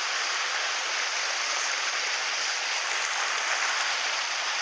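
Mountain stream water rushing steadily, a continuous even hiss of flowing water.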